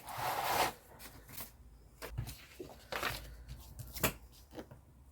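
Paper rustling as it is picked up and handled, loudest in the first moment, then quieter crinkles and light taps with one sharper click about four seconds in.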